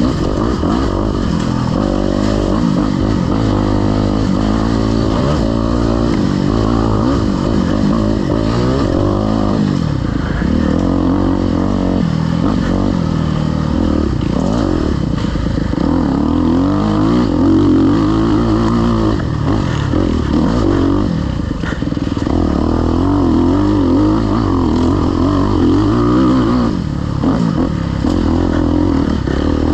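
Off-road dirt bike engine revving up and down as it is ridden hard, its pitch rising and falling continuously, with occasional clatter.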